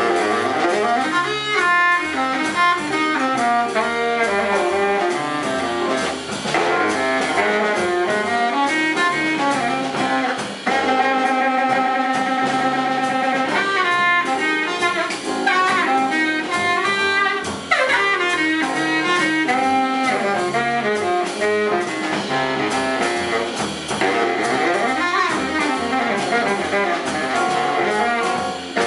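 A big jazz band playing an up-tempo swing tune live, its saxophone and brass sections over the rhythm section. About eleven seconds in, the horns hold a sustained chord for two or three seconds before the moving lines resume.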